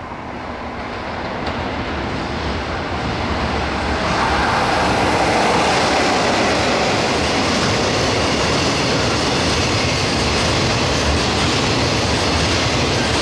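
Freight train passing close by: the rumble of wheels on rail builds over the first few seconds, then becomes a loud, steady rush of wagons rolling past.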